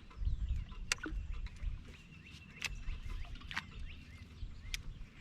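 Birds singing and calling, including a trill and short whistled glides, over a low steady rumble, with a few sharp clicks.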